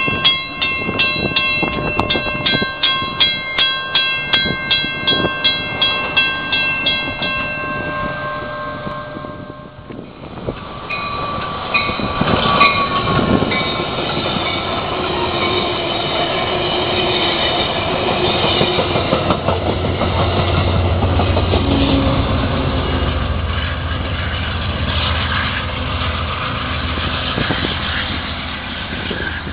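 Grade-crossing warning bell ringing about twice a second, stopping about eight seconds in. An Amtrak Downeaster train then comes through, sounding its horn briefly, followed by the low rumble of the diesel and the wheels on the rails as it passes.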